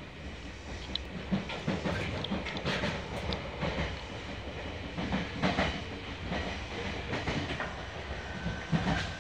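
Meitetsu 6500 series electric train running, heard from inside the passenger car. A steady rumble of wheels on rail, with irregular clacks and rattles as the car rides over the track.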